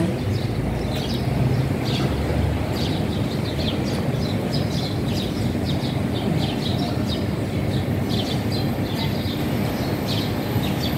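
Small birds chirping in short, repeated notes over a steady background rumble.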